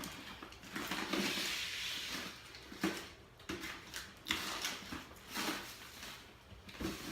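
Close-up eating sounds from someone eating fast food: a noisy stretch of a second or so about a second in, then a string of short chewing and mouth noises about once a second.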